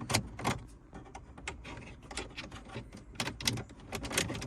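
Hard plastic car-interior trim clicking and knocking as a plastic piece is pried out of a small dashboard compartment: an irregular series of sharp taps and clicks.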